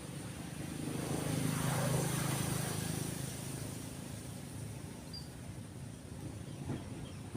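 A motor vehicle passing by, its engine hum and road noise swelling to a peak about two seconds in and then fading away. A few faint bird chirps near the end.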